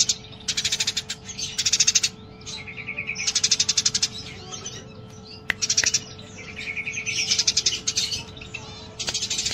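Eurasian tree sparrow giving fast, excited chattering chirps in repeated bouts of about a second each, the agitated 'fighting' chatter.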